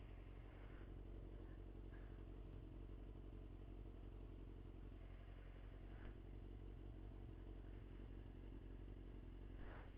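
Suzuki 600 motorcycle engine running faintly and steadily, a low even hum with no revving.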